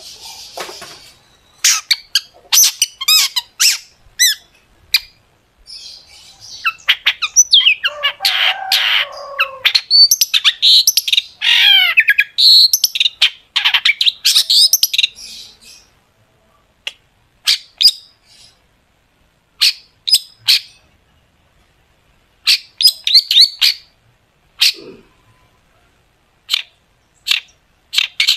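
Long-tailed shrike (cendet) singing: sharp, quick 'shot' notes, with a dense run of rapid chattering and warbling phrases in the first half, then single sharp notes with gaps between them.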